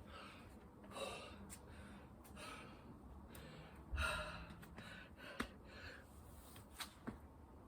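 A person breathing hard in gasping breaths, winded from heavy exercise, with a few short light knocks in the second half.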